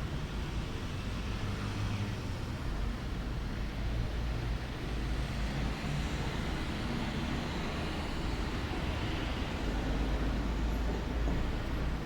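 A steady low rumble with a fainter hiss above it, even throughout, with no distinct events.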